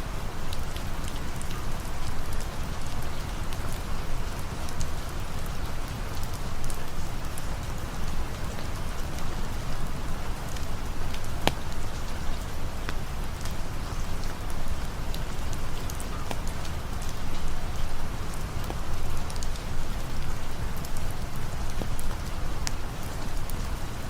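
Steady rain falling, an even wash of noise with scattered sharp ticks through it.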